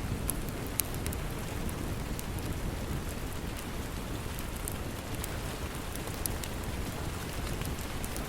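Steady rain with scattered sharp pops and crackles of a wood fire over it.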